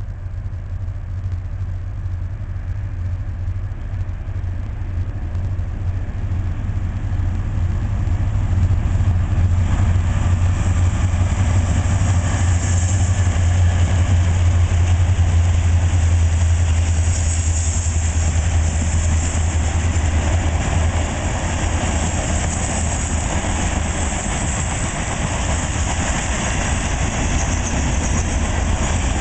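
Diesel locomotives of a coal train, two GE C44-9Ws and an EMD SD70M-2, approaching and passing with a deep engine drone that builds and is loudest as they go by about halfway through. The drone then eases, giving way to the steady hissing roll of the loaded coal hoppers' wheels on the rails.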